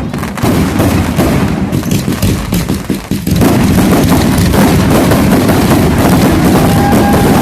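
Fireworks going off in a rapid, continuous barrage of crackles and bangs, becoming denser and steadier a little over three seconds in.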